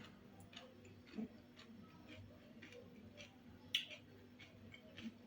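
Quiet eating sounds: soft chewing clicks repeating about twice a second, with one sharper click a little past the middle.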